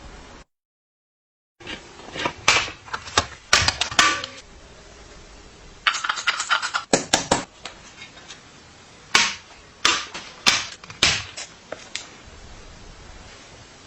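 Irregular sharp knocks and clicks, coming in clusters, from hands-on work on bicycle parts during a restoration.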